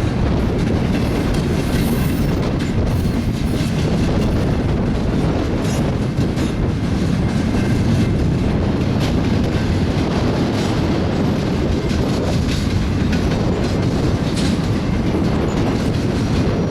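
Freight cars of a double-stack container train rolling past, wheels clacking over rail joints with a steady low rumble and brief metallic clicks.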